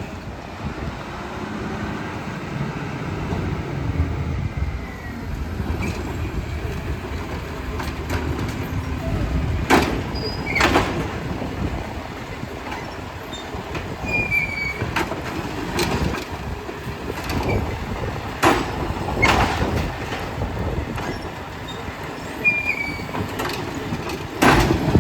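Glass recycling truck running with a steady low rumble, broken by about eight irregular sharp crashes and clanks, the loudest near the end.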